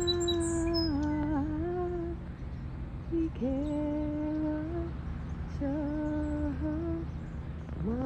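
A woman humming a slow tune in long, held notes, in three or four phrases with short breaks between them. A few faint, high bird chirps sound near the start.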